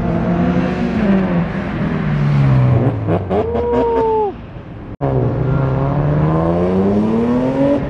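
Modified cars driving out of a car show, one engine revving and then falling in pitch as it passes. A short two-note horn-like tone sounds about three seconds in, the sound cuts out for an instant about five seconds in, and then another car's engine rises steadily in pitch as it accelerates away.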